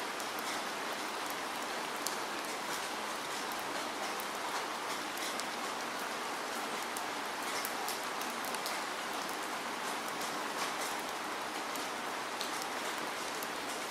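Steady rain: an even hiss dotted with many small, sharp ticks of drops striking.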